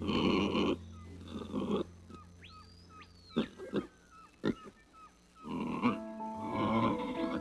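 An animal's rough, grunting calls in several bursts, with a few sharp clicks in the middle, over light background music.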